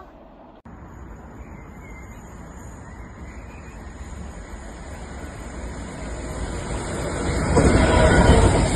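A train approaching and passing: a rumble that builds steadily and is loudest near the end, following an abrupt break just after the start.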